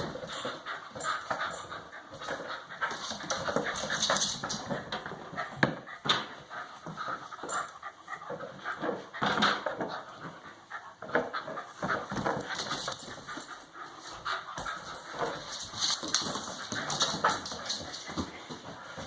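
A dog panting and whimpering at play, amid many short scuffs and knocks.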